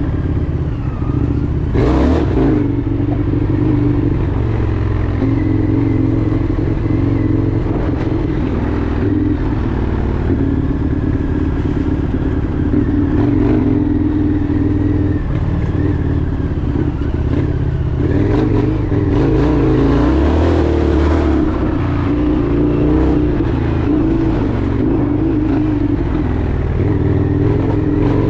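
Indian FTR 1200's V-twin engine running while the motorcycle is ridden, its engine speed rising and falling as the throttle changes.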